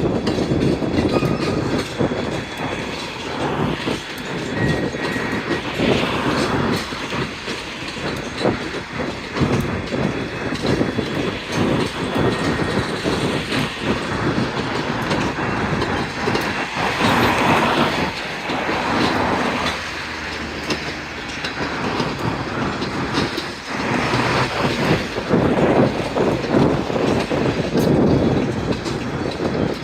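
Freight cars rolling by on the track, their wheels clicking and clunking over rail joints in a continuous stream.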